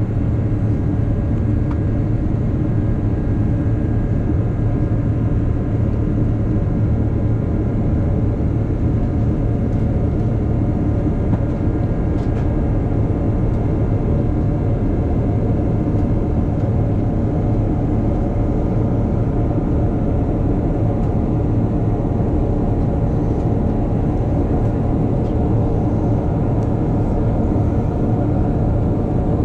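Steady cabin noise inside a Boeing 777-300ER, its GE90 engines running with a constant low drone and some faint steady tones, unchanging throughout.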